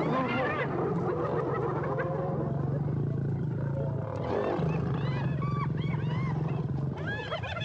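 Lions growling steadily during a fight with spotted hyenas, while the hyenas give rapid rising-and-falling giggling calls that crowd in over the growl about halfway through.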